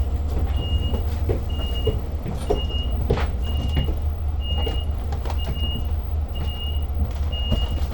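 A short, high electronic beep repeating about once a second inside a Long Island Rail Road train car, over the steady low hum of the train, with a few scattered clicks and knocks.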